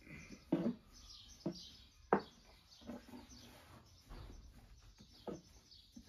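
Small birds chirping throughout, with about five sharp knocks or clatters close by; the loudest comes about two seconds in.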